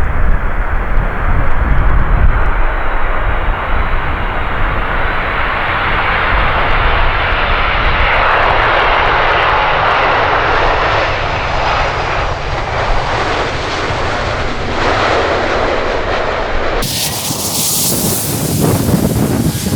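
Jet engines of a Boeing 747: a steady, loud rumble and roar with a faint rising whine as the four-engined airliner comes in to land. About three seconds before the end, it cuts abruptly to a loud, even hiss.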